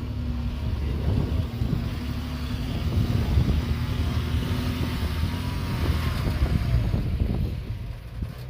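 Diesel engine of heavy earthmoving machinery working, a steady low rumble that swells in the middle and eases off near the end.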